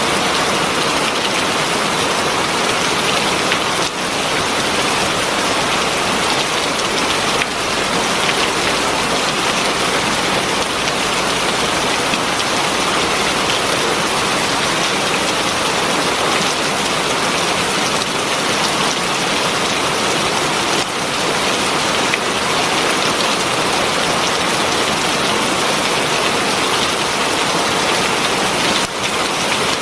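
Heavy rain falling steadily: a dense, even rush of drops with no let-up.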